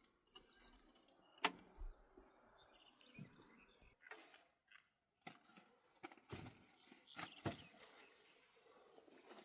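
Faint, scattered knocks and clicks over a quiet background, the sharpest about one and a half seconds in.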